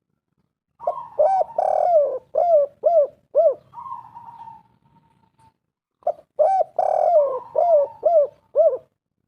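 Spotted dove cooing: two phrases of several quick, rounded coo notes, the first about a second in and the second about six seconds in, each ending in a drawn-out note.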